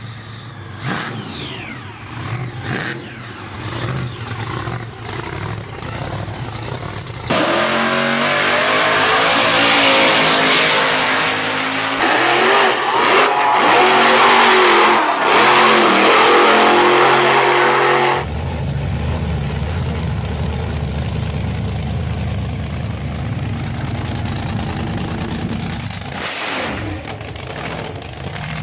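Muscle car V8 engines revving and accelerating in several clips cut back to back. A louder stretch of hard revving, rising and falling in pitch, gives way abruptly to a steady low rumble.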